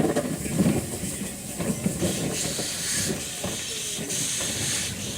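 Steam locomotive hissing steam, the hiss swelling twice, over irregular low knocks.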